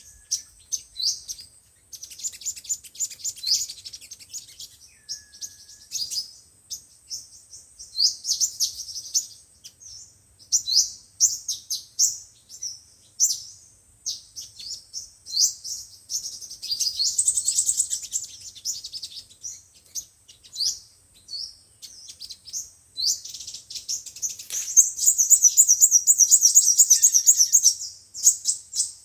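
Sunbirds singing: a run of short, high-pitched chirps and twitters, broken by fast trills, with the longest and loudest trill near the end.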